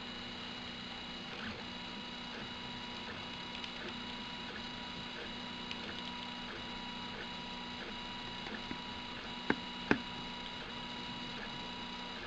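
Prusa i3-type 3D printer running, a steady whine of several held tones with faint scattered ticks. Two sharp clicks about half a second apart come late on.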